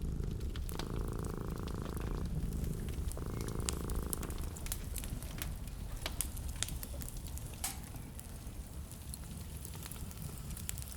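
Wood fire crackling in a fireplace, sharp pops and snaps over a low steady rumble. In the first half, a low purr-like buzz comes in twice, for about a second or more each time.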